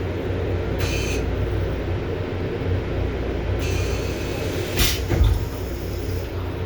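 Steady low rumble of a Metro-North M7 electric railcar running, heard from inside the car. A brief hiss comes about a second in, and a longer hiss about three and a half seconds in ends in a sharp knock and a heavy thump.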